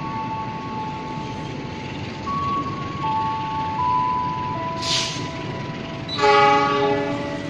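Passenger coaches rolling slowly past with a high, steady squeal from the running gear that jumps between a few pitches. There is a short hiss about five seconds in, and near the end a louder, fuller tone lasting about a second.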